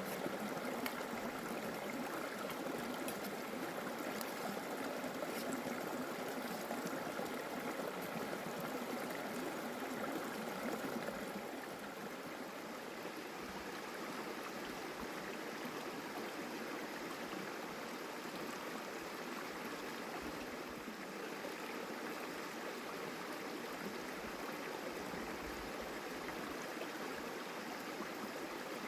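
Water running steadily, as in a flowing stream, with a continuous rushing sound. It gets slightly quieter about twelve seconds in.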